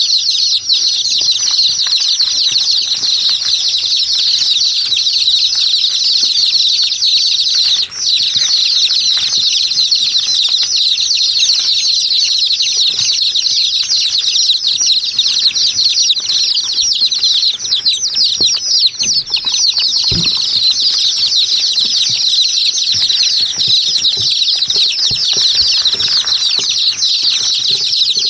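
Many small birds chirping at once, a dense, unbroken chatter of quick high chirps.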